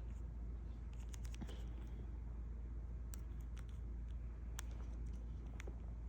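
A steady low rumble with scattered faint sharp clicks, a second or two apart, strongest around three and four and a half seconds in.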